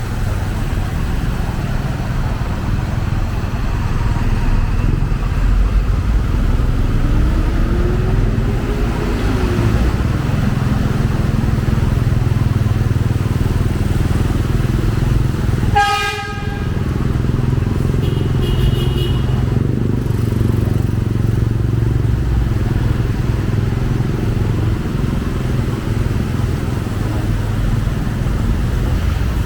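Steady rumble of heavy city road traffic, with a short vehicle horn toot about halfway through and a brief higher beep a couple of seconds later.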